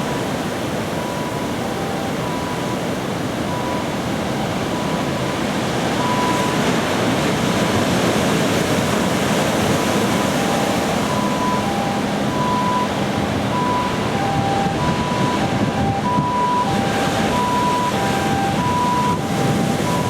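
Surf breaking and wind on the microphone, with a repeating two-note electronic tone sounding over it that grows more regular about halfway through.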